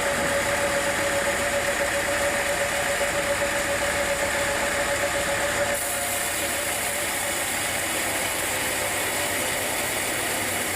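Sawmill machinery running steadily, with a high whine over the drone for the first half that stops about halfway through, leaving a slightly lower, even running sound.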